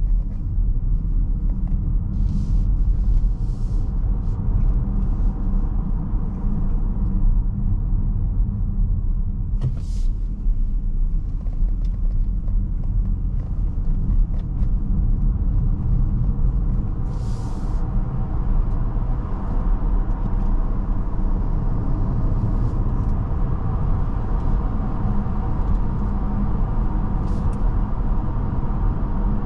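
Steady low road and tyre rumble heard inside the cabin of a Mercedes-Benz GLB350 on the move, with a few brief hissing sounds.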